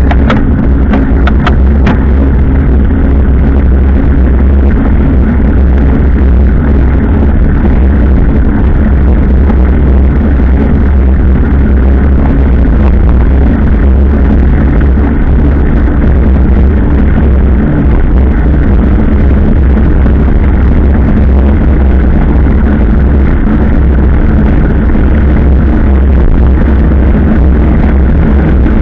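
Motorcycle engine running steadily while riding, under a loud, steady wind rumble on the microphone. A few knocks come in the first two seconds.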